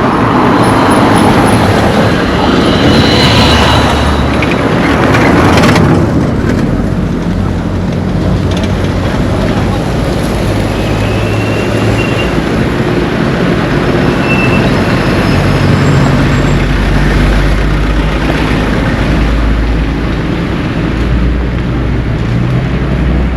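Motor vehicle engine running with a steady low hum. A louder rushing noise over the first six seconds stops abruptly.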